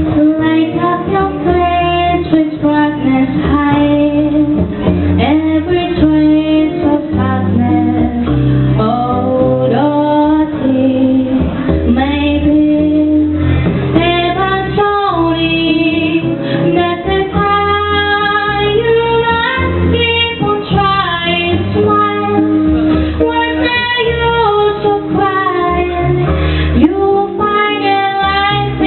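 Live music: a woman singing a melody with held, gliding notes over guitar and a bass line.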